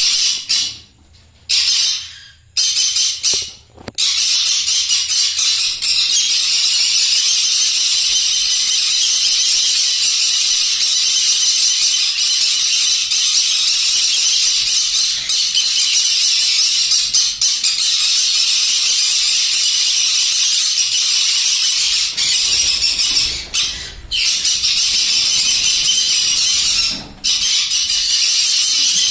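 A crowd of small pet parrots calling and screeching together in a continuous dense din. After a few short breaks in the first few seconds the calling runs on almost without pause, dipping briefly twice near the end.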